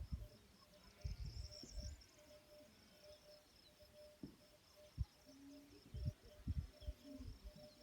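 Insects chirping in a steady pulsing rhythm as a faint outdoor nature ambience, with a brief flurry of higher chirps about a second and a half in. Scattered low thumps come and go, most around the middle and just after.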